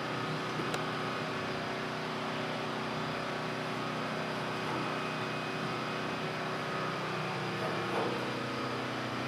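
A steady mechanical hum with a couple of faint ticks.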